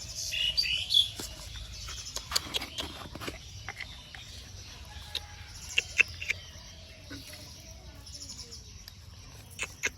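Small birds chirping: a quick run of high chirps in the first second, then scattered short chirps and sharp clicks.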